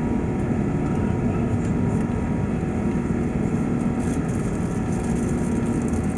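Airbus A380 jet engines and airflow heard inside the economy cabin: a steady, even noise with a low hum running through it.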